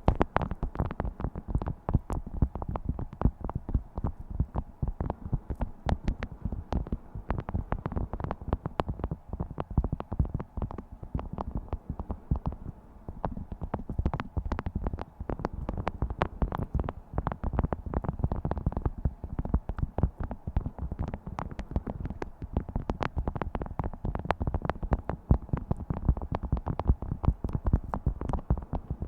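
Beeswax food wrap being crumpled and handled: a dense, continuous run of crackles and crinkles from the stiff waxed cloth.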